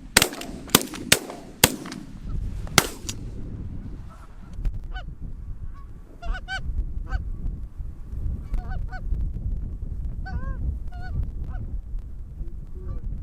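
A volley of about five shotgun shots in the first three seconds, followed by geese honking repeatedly. Wind rumbles low on the microphone throughout.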